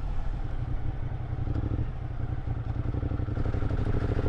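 Motorcycle engine labouring in low gear up a steep switchback, its note growing stronger about three seconds in as the rider gives it a burst of power to get through the turn.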